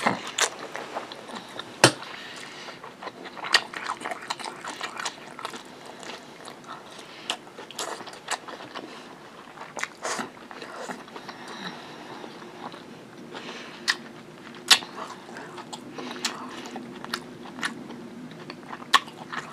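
Close-up mouth sounds of a person chewing a mouthful of fried rice and chicken, with irregular sharp wet clicks; the loudest come about 2 and 15 seconds in.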